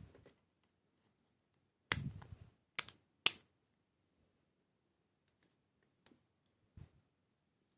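Small model-kit parts and tools being handled on a work surface: a short rattle of taps about two seconds in, two sharp clicks just under a second apart after it, the second the loudest, then a few faint ticks and a duller knock near the end.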